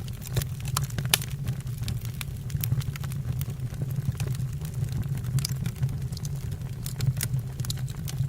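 Logs burning in a fireplace: a steady low rumble of flames with frequent irregular sharp crackles and pops.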